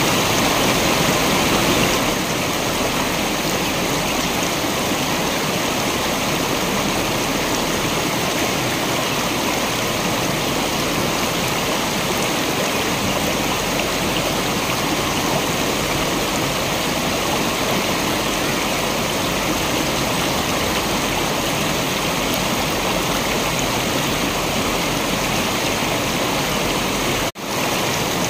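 Waterfall: a steady rush of falling water, with a momentary dropout in the sound about 27 seconds in.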